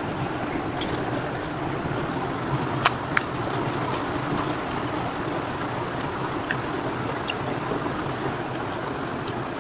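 Steady background noise with a few short, sharp clicks, the two loudest about one second and three seconds in.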